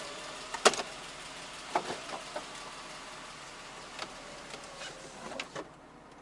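Electric convertible roof of an old Porsche closing: a steady motor whir with several sharp mechanical clicks as the roof moves and latches. The whir stops about five and a half seconds in as the roof finishes closing.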